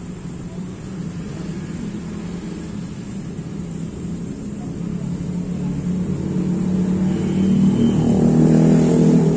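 Yamaha Jupiter MX 135's single-cylinder four-stroke engine running through an R9 Misano aftermarket exhaust with its dB killer fitted, a mellow, low note. It grows louder over the second half, is loudest near the end, then drops off.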